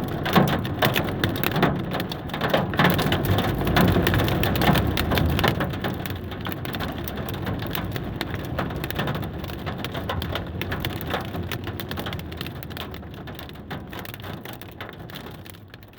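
Heavy rain mixed with hail pelting down, a dense patter of hard little impacts, growing steadily fainter toward the end.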